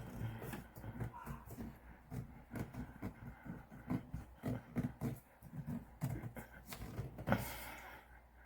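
Irregular plastic knocks and clicks of a handheld shower head being handled and fitted into its holder, with one louder knock near the end.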